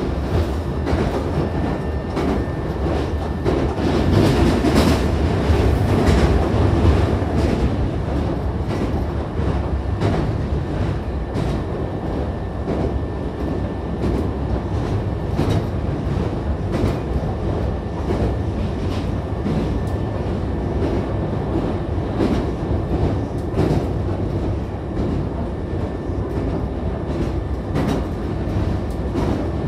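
Hankyu Kyoto Line electric train running at speed, heard from inside the car by the doors: a steady rumble of wheels and running gear with irregular wheel clicks over the rail joints as it crosses a river bridge. It is loudest about four to seven seconds in.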